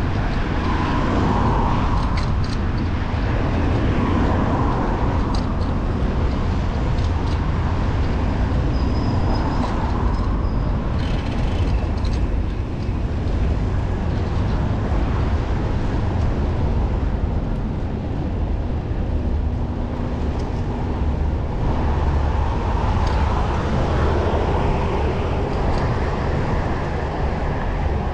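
Steady wind rumble on the microphone of a camera riding on a moving road bike, over the noise of passing car traffic.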